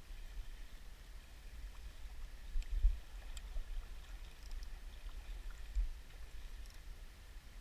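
River ambience: a steady wash of flowing water, with wind buffeting the microphone in uneven gusts, the strongest about three seconds in. A few faint ticks sound over it.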